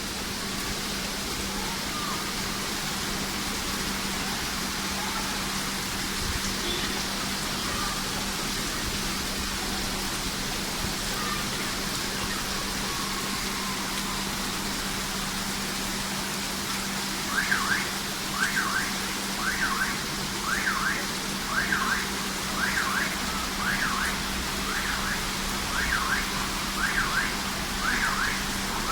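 Steady rain hiss. From about two-thirds of the way in, a car alarm starts up, wailing in repeated rising-and-falling sweeps, about one a second.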